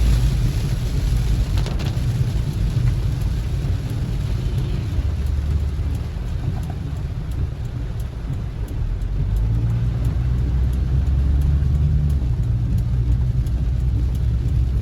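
Heavy rain falling, with scattered faint ticks of drops, under a steady low rumble that swells and eases slowly.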